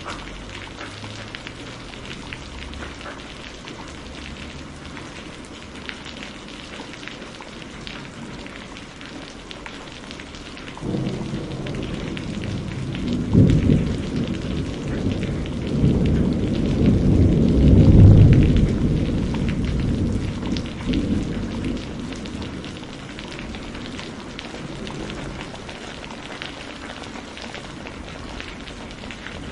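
Steady heavy rain falling on a surface, with a long roll of thunder that begins about a third of the way in, swells to its loudest about halfway, and dies away into the rain.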